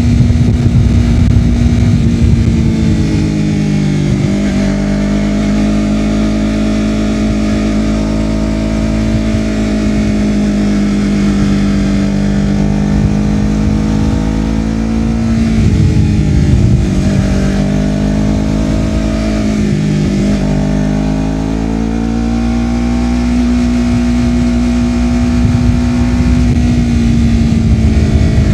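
Honda CBR250RR parallel-twin engine through a Yoshimura R-11 slip-on exhaust, ridden on the road. The engine note holds steady, then drops and climbs again a few times as the throttle is rolled off and on through gear changes.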